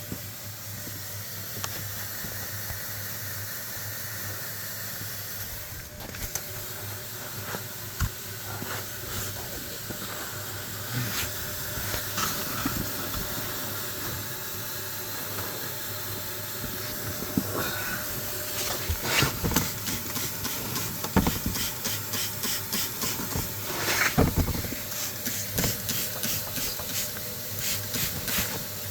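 Steady hiss from a 2002 Ford F-150 exhaust system under an exhaust leak test, with irregular sharp ticks and puffs growing more frequent in the second half. These are the sounds of leaking exhaust, which is escaping at five of the cylinders.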